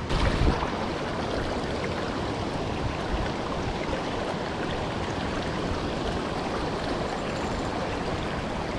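Steady rushing of water at a dam spillway, an even wash of noise with no breaks. A brief low thump sounds in the first half second.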